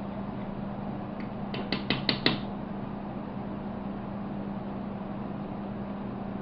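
Steady low hum and hiss of room tone, broken about two seconds in by a quick run of about five light clicks or taps of something hard.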